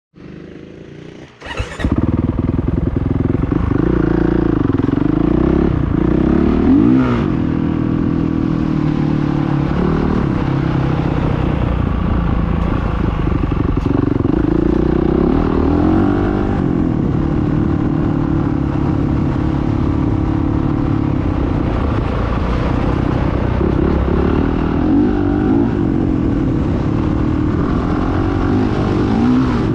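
Motocross motorcycle engines running hard, their pitch rising and falling again and again as they rev and change gear. The sound is fainter for the first second and a half, then jumps to loud and stays loud.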